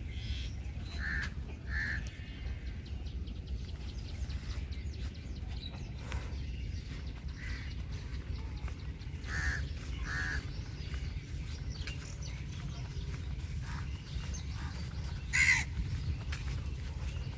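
Birds calling with short, harsh calls every few seconds, the loudest one near the end, over a steady low rumble.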